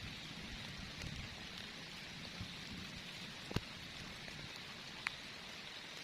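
Heavy rain falling steadily in an even hiss, with two sharper drop taps, one about halfway through and one near the end.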